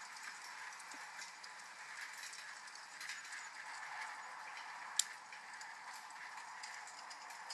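Wood fire crackling with small irregular pops over steady rain, with one sharp crack about five seconds in.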